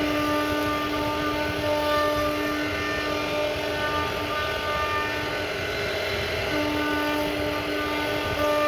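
CNC router spindle running and cutting wood: a steady whine with a noisy cutting sound underneath. The whine drops out for a few seconds in the middle and comes back near the end.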